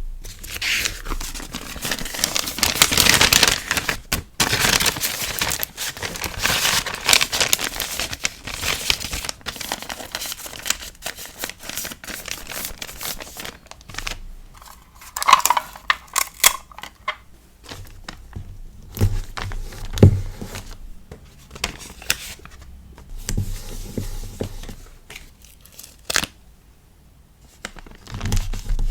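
Hands packing a sticker order: paper and plastic packaging rustling and crinkling for the first several seconds. After that come scattered light taps and clicks and a few soft thumps.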